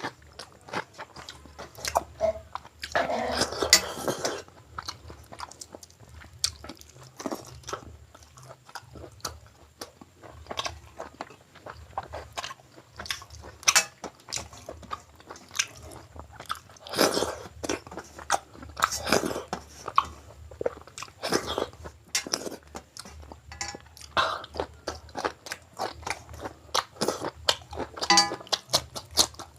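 Close-miked eating of chicken gizzard curry with mutton biryani: steady chewing with many short, wet mouth smacks and clicks, and a few longer, noisier mouthfuls.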